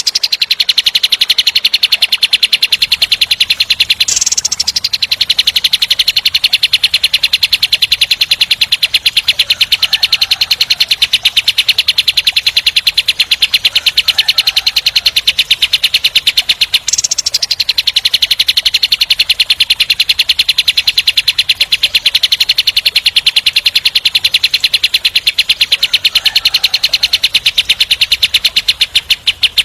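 Kapas tembak bulbul singing a long, fast, tightly packed roll of short, harsh repeated notes with no pause.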